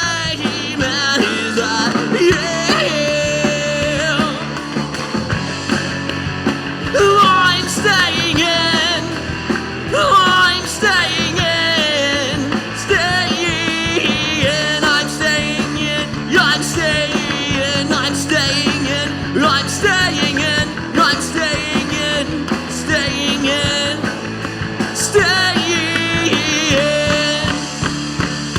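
Live rock band playing a song, with no sung words.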